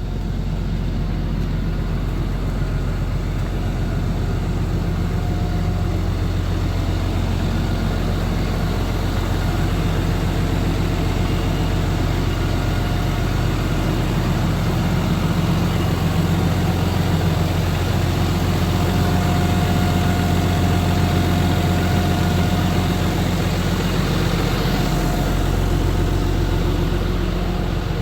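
Volvo FL 290 truck's diesel engine idling steadily.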